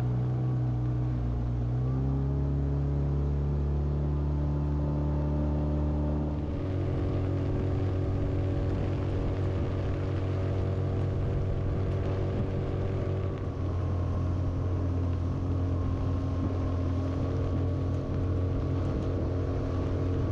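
A small fishing boat's motor running steadily, its pitch shifting about two seconds in and again about six seconds in as the speed changes.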